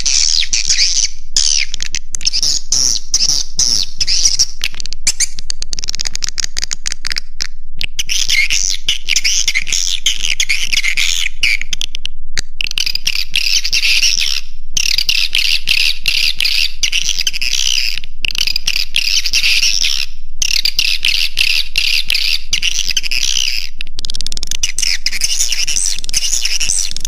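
Swiftlet lure call: a dense, continuous twittering of many swiftlet chirps, high-pitched and at a steady level, broken by a few brief gaps. It is the kind of roosting call played from swiftlet houses to draw the birds in and settle them.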